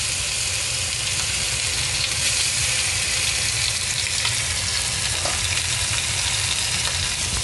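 Chicken pieces sizzling steadily in hot oil in a wok, searing undisturbed, over a low steady hum.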